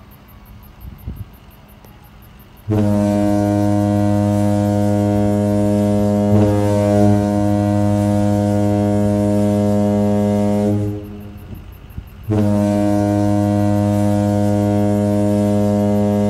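A deep horn sounding two long, steady blasts: the first lasts about eight seconds, and the second starts about a second and a half after it ends.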